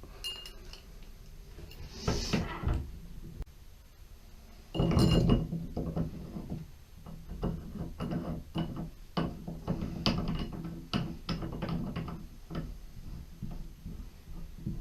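Clicks and knocks of tools and small valve parts being handled during shower-valve cartridge work, with a louder clatter about five seconds in and a run of quick clicks after it.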